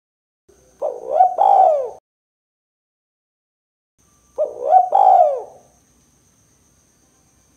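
Spotted dove (tekukur) cooing: two short phrases of a few quick coos, one about a second in and another about four and a half seconds in, with silence between.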